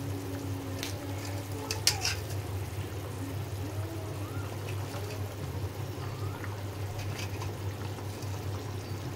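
Masala gravy bubbling at a boil in a kadai as fried rohu fish pieces are slipped in by hand, with a few short sharp clicks and splashes, the loudest about two seconds in. A steady low hum runs underneath.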